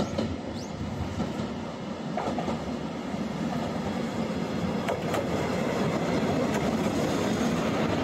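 Train running along the track: a steady rumble from the wheels and carriage with a few sharp clicks from the rails.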